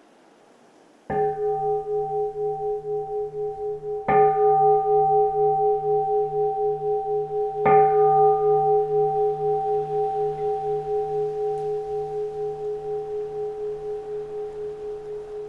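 Keisu, a Buddhist bowl-shaped temple bell, struck three times about three seconds apart, each strike ringing on with a slow wavering pulse and fading slowly.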